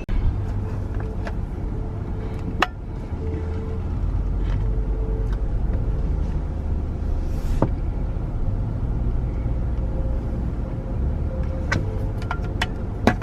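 A car's steady low running rumble, heard inside the cabin at a car wash, with a faint hum coming and going and a few sharp clicks.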